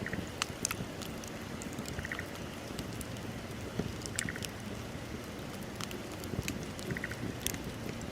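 Wood bonfire burning: a steady low rush with scattered sharp crackles and pops. A faint short chirp recurs every two seconds or so.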